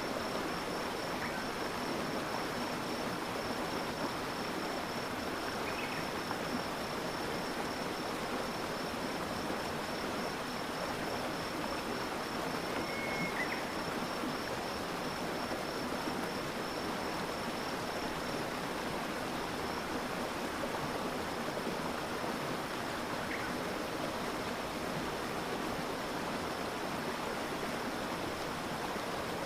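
Stream water flowing and splashing steadily, with a continuous high-pitched tone above it and a few faint short chirps now and then.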